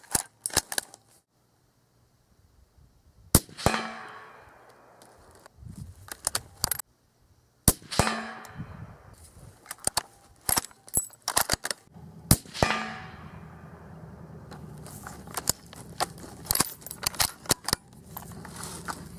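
Three suppressed .308 rifle shots from a Desert Tactical Arms SRS Covert bolt-action, about four and a half seconds apart, each followed by a ringing echo that dies away over a second. Between the shots come clusters of sharp metallic clicks and clacks. A low steady hum comes in after the third shot.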